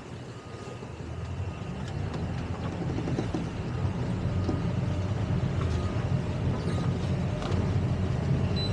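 Towboat engine running with a low rumble that builds steadily louder over several seconds as the boat powers up.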